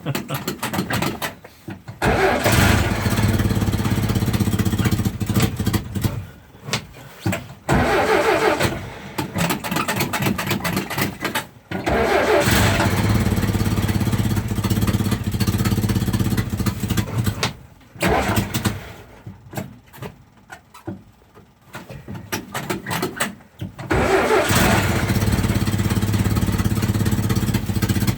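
A 1949 Jeep's engine being cranked on a hard cold start, in repeated bursts of several seconds each with pauses between, not staying running.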